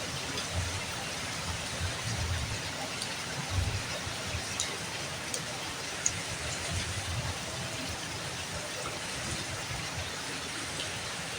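Steady rain falling, an even hiss with scattered drips ticking and irregular low thuds.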